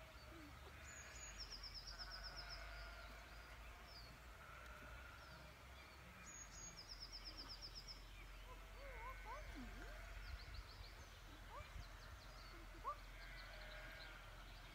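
Faint outdoor ambience with songbirds: two short rapid high trills and a few scattered chirps over a low background rumble.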